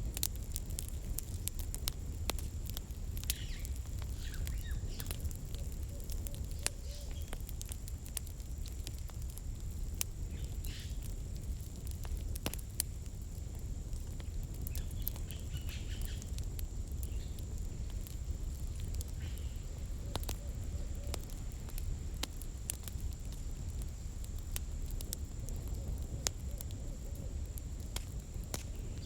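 Campfire crackling: burning firewood snapping and popping in many sharp, irregular clicks over a steady low rumble of the flames.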